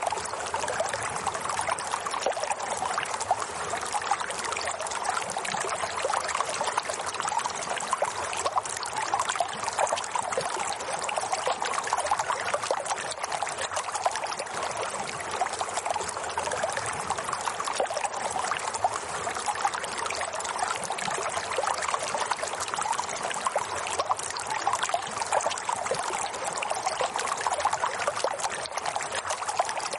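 Steady running water trickling and splashing, unchanging throughout.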